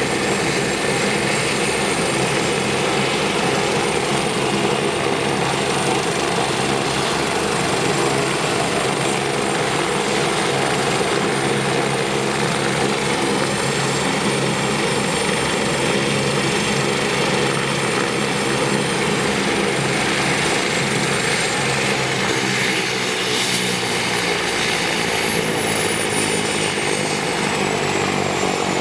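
Eurocopter BK 117 C1 helicopter running, with its twin turboshaft engines whining steadily over the rotor. About three-quarters of the way through, the turbine whine begins to fall in pitch as the engines start to spool down.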